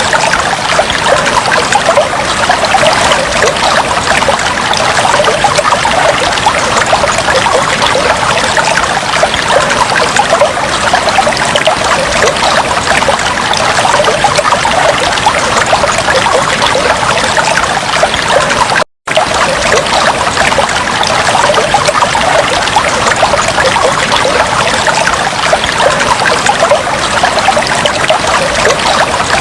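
Aquarium water trickling and splashing steadily. The sound cuts out for an instant about two-thirds of the way through.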